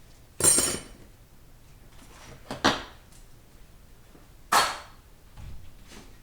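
Steel transmission parts being set down on a workbench: a few sharp metallic clanks, the first one ringing briefly.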